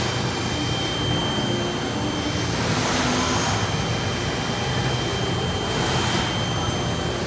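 Mori Seiki NH4000DCG horizontal machining center running through an automatic pallet change, a steady machine hum with a constant high whine. Two swells of hiss come about three seconds in and again near six seconds.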